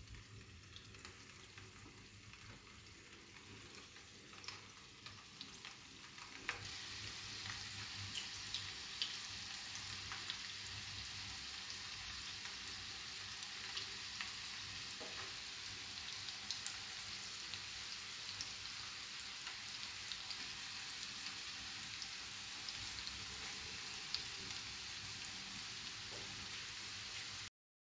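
Oil sizzling in a frying pan as minced chicken kababs shallow-fry over a low flame, with occasional small pops. The sizzle steps up louder about six seconds in, holds steady, then cuts off suddenly just before the end.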